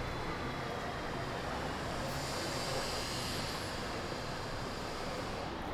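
Steady city street ambience with traffic noise; a hiss swells in the middle and drops away near the end.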